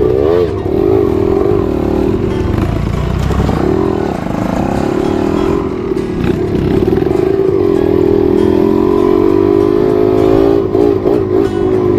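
Trail motorcycle engine revving up and down as the throttle is worked over rough ground, then holding a steadier note about eight to ten seconds in before dipping again.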